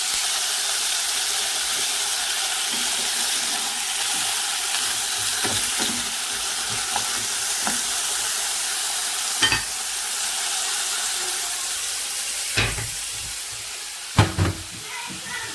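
Potatoes frying in oil in a pan, a steady sizzle, with a few sharp knocks of a utensil against the pan near the end.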